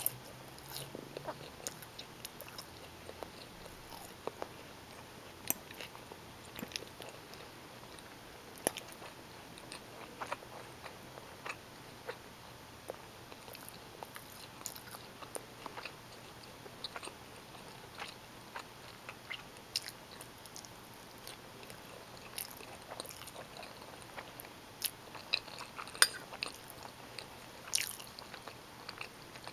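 Close-miked chewing and biting of bowtie pasta in tomato sauce: irregular soft wet clicks and mouth sounds, with a few louder ones near the end.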